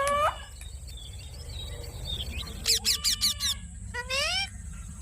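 Pet green parrot calling: a quick run of sharp chirps a little past halfway, followed by a few rising, whistle-like squawks.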